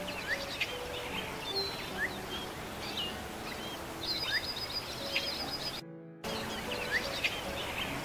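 Small birds chirping and twittering in quick, high calls, with a rapid trill about four seconds in, over soft background music. The sound drops out briefly near the six-second mark, and then the chirping starts again.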